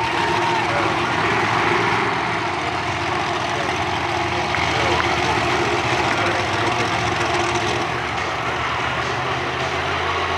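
Heavy engine idling steadily, a constant low hum with no revving.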